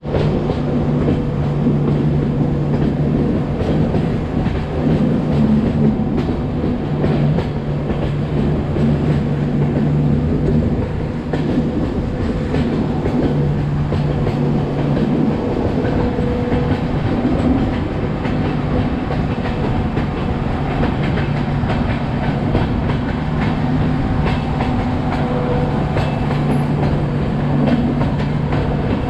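Diesel-hauled passenger train running along the line: wheels clickety-clack over the rail joints under a steady low engine hum.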